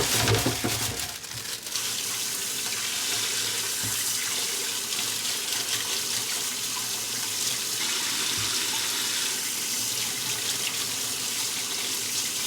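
Tap water running steadily into a sink, with a few knocks from handling in the first second or two.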